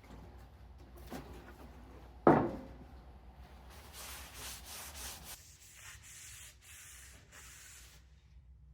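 A single sharp knock, then a run of short rubbing or scraping strokes, as of something being wiped or rubbed against a surface.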